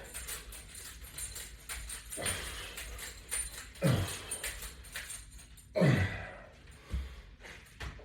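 Short vocal grunts from a man exercising, each dropping quickly in pitch, roughly two seconds apart, with the strongest two near the middle. Light metallic clinking runs underneath.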